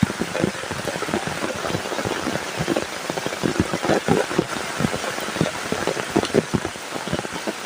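Heavy rain falling steadily, with many close, irregular drops striking a surface.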